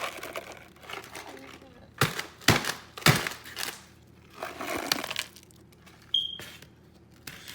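Ice cubes poured and dropped onto shrimp in a bowl: a few sharp clattering, crunching spills, the loudest about two to three seconds in.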